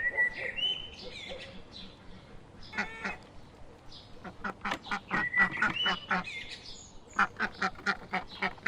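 Domestic ducks quacking in rapid runs of short calls, with a higher call at the start.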